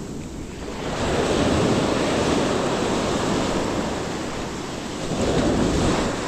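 Surf washing onto a beach, swelling as a wave breaks about a second in and again near the end, with wind buffeting the microphone.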